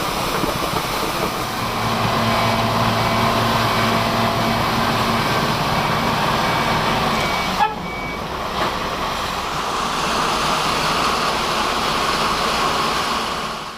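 A heavy vehicle's engine running steadily under a constant rush of noise, with an abrupt change a little over halfway through.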